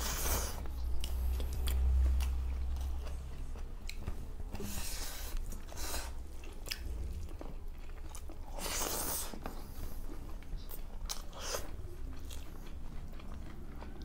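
Close-up mouth sounds of two people eating rice, quail eggs and potato-tomato curry by hand: soft wet chewing and lip smacking, with many short irregular clicks.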